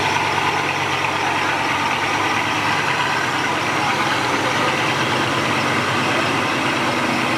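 Bugatti Veyron Grand Sport's quad-turbocharged W16 engine idling steadily after a cold start, with an even, unchanging note.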